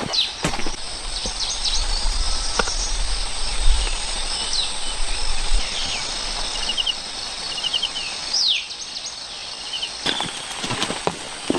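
Forest ambience: birds giving short chirps and quick trills over a steady high insect drone. A low rumble runs through the first half.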